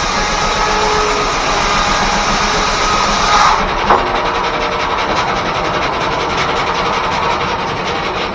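Steam-driven 1880s R.R. Howell sawmill's circular saw cutting through a log. The cutting sound stops suddenly about three and a half seconds in, followed by a single sharp knock, and the mill runs on with a duller steady noise.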